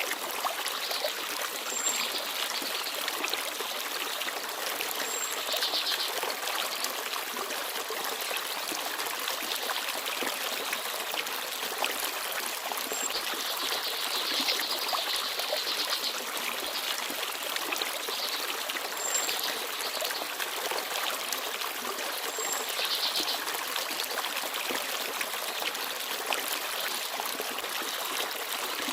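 Forest stream babbling and trickling steadily, with a few faint, very short high bird chirps scattered through it.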